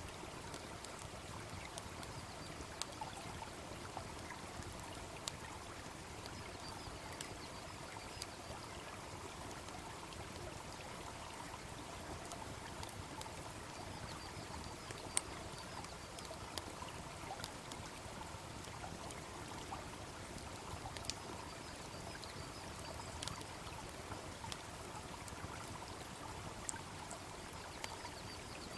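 Wood fire crackling, with scattered sharp pops at irregular intervals, over the steady babble of a small stream.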